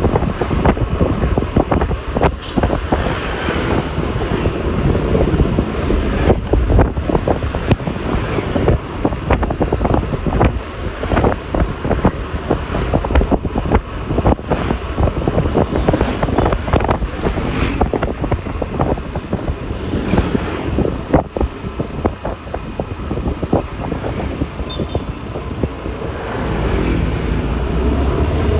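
Wind buffeting a microphone on a moving motor scooter, over road and engine noise while riding in traffic. Near the end a low rumble grows louder.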